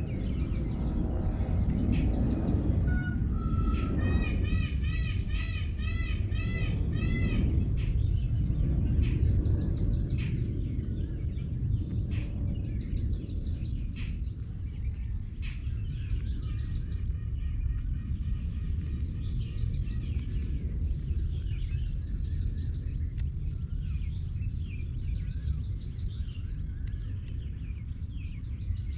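Birds calling outdoors: a quick run of about seven arching, ringing calls a few seconds in, then a short high buzzy trill repeating about every three seconds, all over a steady low rumble.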